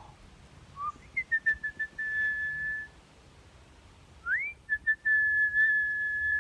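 A person whistling two phrases, each a few short notes and a quick upward slide into one long, steady, high note held for about a second or more. The second phrase starts about four seconds in.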